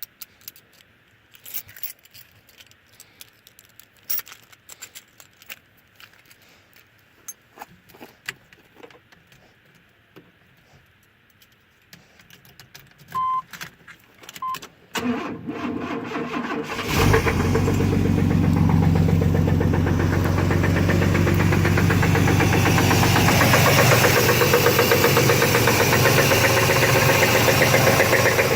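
Keys rattling and clicking, then two short beeps, then a car's starter cranks for about two seconds until the engine catches and settles into a steady idle. The owner says the engine has a knocking noise that he cannot place, flywheel or engine.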